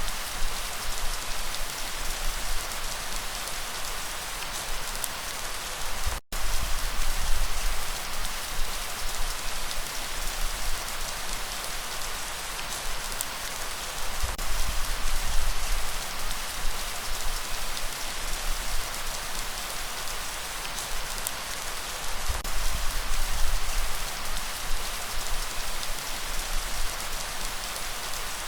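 Steady rain falling and pattering on surfaces, as an even hiss that swells and eases in waves. The sound cuts out for an instant about six seconds in.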